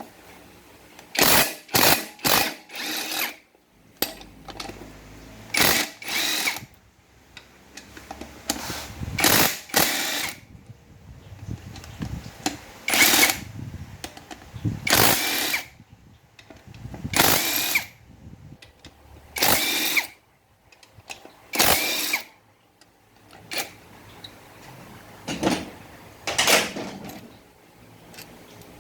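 A power tool run in about fifteen short bursts, several in quick succession near the start, undoing the bolts that hold the front pump of a 5R55S automatic transmission.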